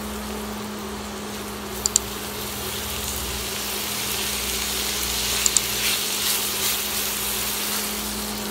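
Diced calabresa sausage, onion and tomato sizzling in an aluminium frying pan as a spatula stirs them, sautéing to soften the tomato, over a steady low hum. Two pairs of short sharp clicks, about two seconds in and again about five and a half seconds in.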